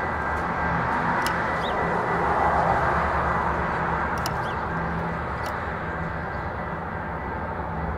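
Metra commuter train approaching, its MP36PH-3S diesel locomotive running with a steady rumble and low engine hum.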